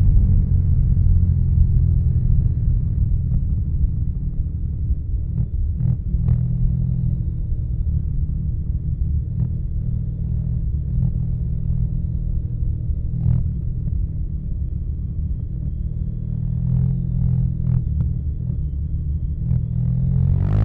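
Suzuki Burgman 650's parallel-twin engine through a Yoshimura R77 carbon full-system exhaust, running at a fairly steady low pitch. It eases off a little in the first few seconds, and a few faint short clicks sound over it.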